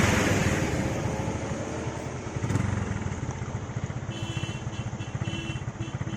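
Hero Glamour 125's single-cylinder four-stroke engine running at low speed, with wind rushing over the microphone at first. A string of short beeping tones sounds over it from about four seconds in.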